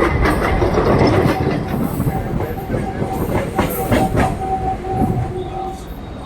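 Suburban local train running on the rails, with wheels clacking over rail joints and the cars knocking and rattling. A steady high squeal from the wheels sounds through the middle, and the running noise eases near the end.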